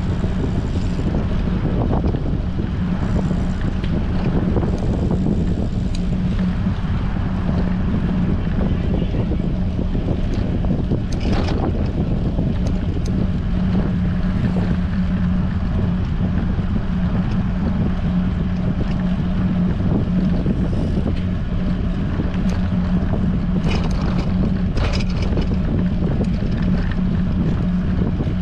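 Steady wind noise on the microphone of a bicycle-mounted action camera while riding in strong wind, over a constant low hum, with a few brief clicks about a third of the way in and near the end.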